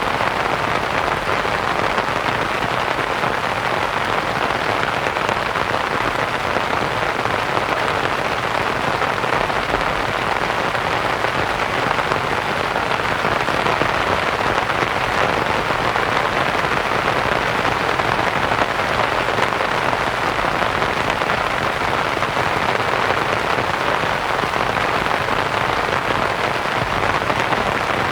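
Rain falling steadily on a canvas tent, mixed with a soft, even white-noise hiss.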